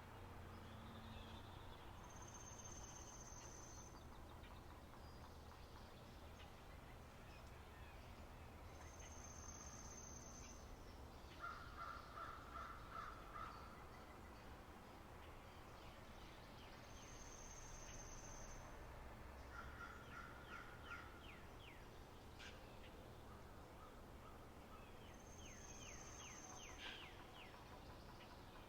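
Faint spring-meadow birdsong: a thin, high whistle held for about a second and a half comes back every eight seconds or so. Twice in the middle a bird gives a quick run of repeated notes with rapid chirps above.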